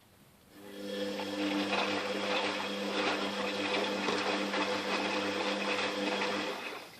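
Fagor washing machine's motor turning the drum during the wash cycle: it starts under a second in, runs steadily with a hum and the swish of the tumbling load, and stops near the end.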